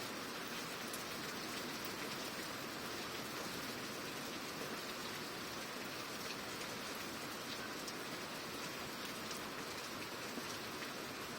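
Steady rain falling, with scattered single drops ticking sharply through the even hiss.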